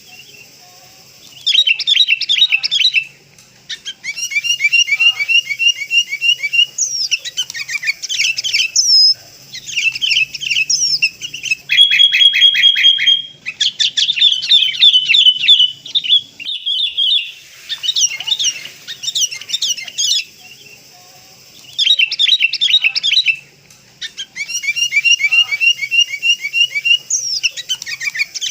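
Sooty-headed bulbul (kutilang) calls used as a trapping lure: loud bursts of rapid, high chirps and trills lasting a few seconds each, broken by short pauses.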